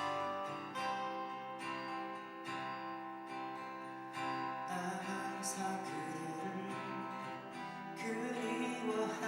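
Live acoustic guitar strumming chords, with a singing voice coming in about halfway through.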